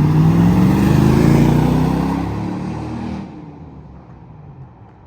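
Lexus GX470's 4.7-litre V8 through an aftermarket Magnaflow exhaust, its note rising briefly, then falling in pitch and fading away over the next few seconds.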